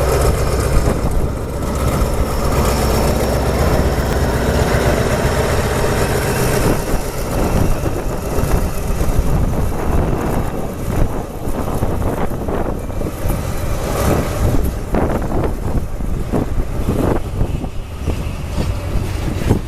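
Alsthom diesel-electric locomotive with an MTU engine running with a steady low hum as it hauls a freight train. About half-way through, a run of irregular knocks takes over: freight wagon wheels going over rail joints.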